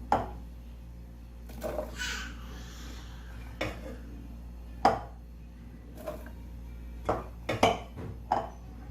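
Kitchen clatter while a blender jar is loaded with corn and milk: scattered, irregular knocks and clinks of utensils and containers, with a short hissing pour about two seconds in.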